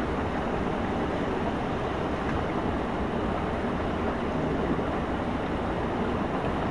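Steady rushing noise of wind and motion on the microphone during a ride, even and unbroken.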